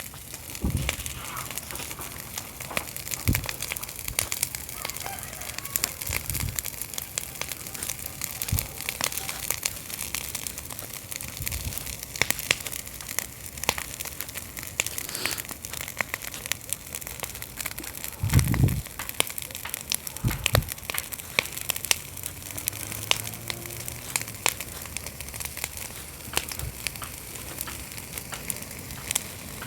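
Campfire burning, the wood crackling and popping in a dense run of sharp snaps over a steady hiss, with a few soft low thumps, the loudest about two-thirds of the way through.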